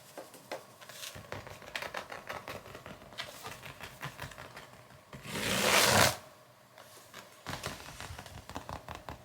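A kitten scrabbling and scratching in rough play: a quick, uneven run of scratches and clicks, with one loud rustling burst about five seconds in that lasts under a second.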